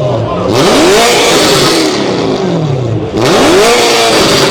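Car engine with a loud exhaust, revved hard twice while the car stands still. Each rev climbs quickly to a peak and then falls away slowly.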